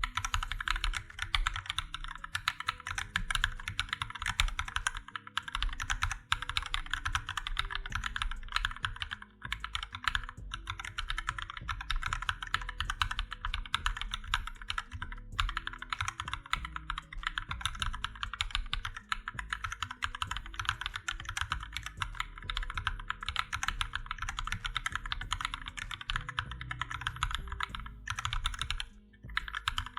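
MonsGeek MG108 full-size mechanical keyboard with Akko CS switches, typed on rapidly and continuously in a sound test, with short pauses about ten seconds in and near the end.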